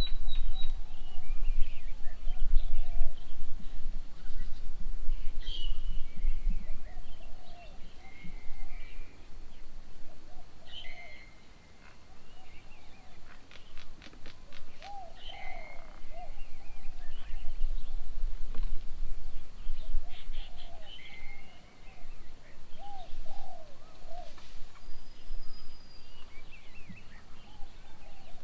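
Several wild birds calling: repeated short, arched low whistles and higher chirps, with a quick rattling series about fourteen seconds in. A low rumble of wind on the microphone comes and goes.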